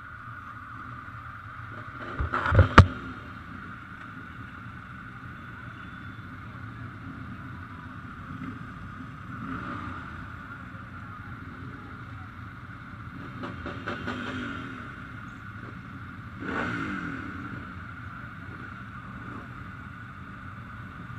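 Ducati motorcycles passing by at a few moments, the last one's engine note falling in pitch as it goes past. A quick cluster of sharp, loud bangs about two and a half seconds in, over a steady background hum.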